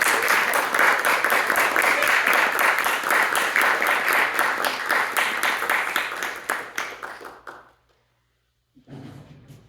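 Audience applauding, the clapping thinning out and stopping about eight seconds in. A quieter low sound, like movement or murmuring, follows near the end.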